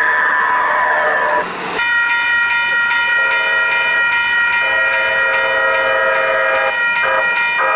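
Los Angeles Metro Rail train with its electric motor whine falling in pitch for the first two seconds, then a long, steady horn chord of several tones.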